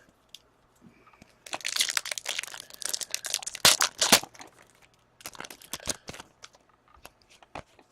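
Crinkling and tearing of a trading-card pack's foil wrapper for a couple of seconds, with two sharper crackles near the end of it, then a run of light clicks and ticks as the cards are handled.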